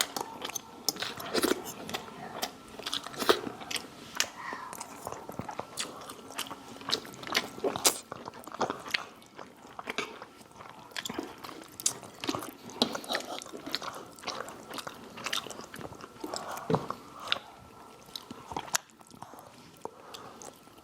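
Close-up biting and chewing of crispy fried chicken, Jollibee Chickenjoy, with many irregular sharp crunches of the breading.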